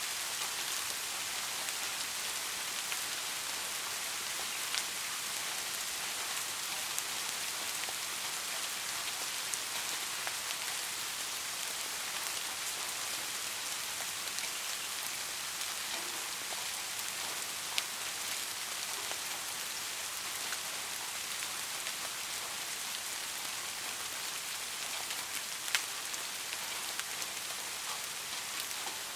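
Steady, gentle rain falling on a surface: an even hiss with occasional distinct drop ticks, the sharpest about two-thirds of the way in and again near the end.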